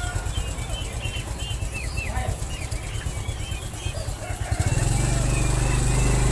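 An engine running with a pulsing low rumble under many short bird chirps; about four and a half seconds in, the engine gets louder and steadier and covers the chirps.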